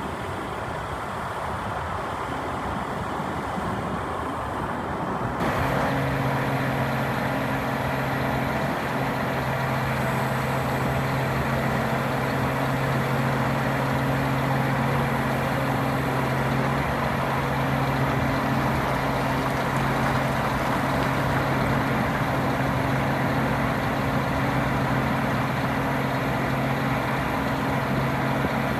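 Scania R480 truck's diesel engine running steadily. About five seconds in, the sound steps up and a steady droning hum joins it, then holds unchanged.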